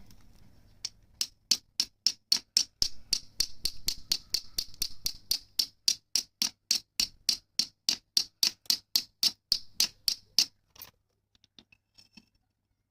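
Flint struck repeatedly against a fire steel to throw sparks onto char cloth: a steady run of sharp, high-ringing metallic strikes, about four a second. The striking stops about ten seconds in.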